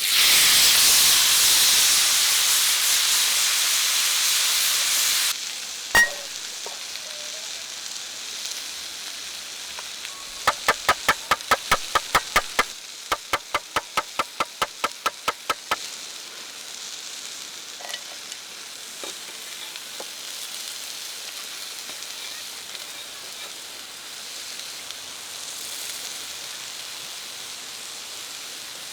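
Ribeye steak sizzling loudly as it fries, cutting off abruptly about five seconds in. Then a single sharp knock, two runs of rapid, evenly spaced clicks around the middle, and a steady rushing of river water underneath.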